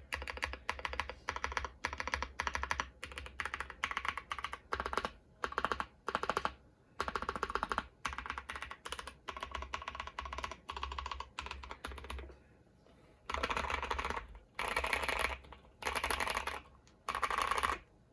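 Typing on a mechanical keyboard with lubed Boba U4T tactile switches on a polycarbonate plate in an aluminium case: bursts of fast key presses with deep clacks and short pauses between them. About two-thirds of the way through it goes quieter briefly, then there are four louder, denser bursts of key presses.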